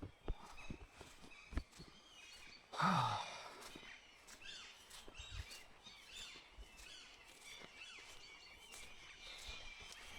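A person sighs once, loud, with the pitch falling, about three seconds in. Birds chirp faintly throughout, and there are two sharp clicks in the first two seconds.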